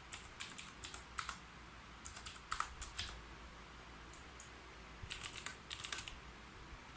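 Typing on a keyboard: quick runs of key clicks in three short bursts, with brief pauses between them.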